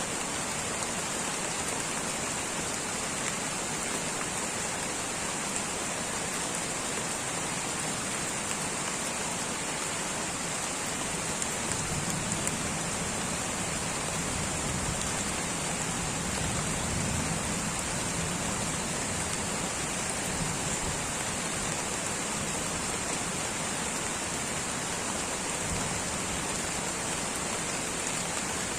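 Light rain falling steadily in a tropical rainforest, an even hiss of drops on foliage. A low rumble swells and fades in the middle.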